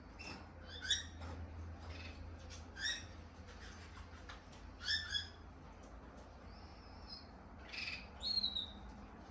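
Pet lovebird giving short, sharp chirps, a few calls spaced a couple of seconds apart, with two quick calls close together near the end, over a faint low hum.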